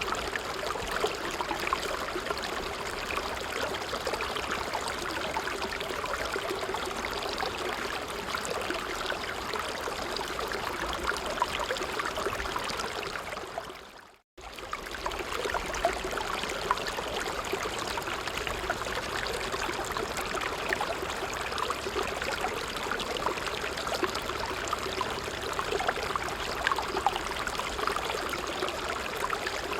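Creek water flowing and trickling steadily. About halfway through, it fades out to silence for a moment and comes straight back in.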